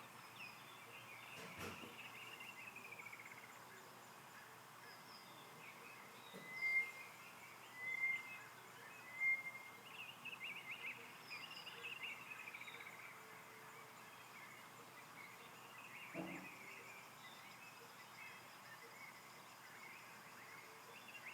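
Wild birds singing and calling faintly, with chirps and falling trills throughout and three louder short whistled notes, evenly spaced, in the middle. Two faint knocks, one near the start and one past the middle.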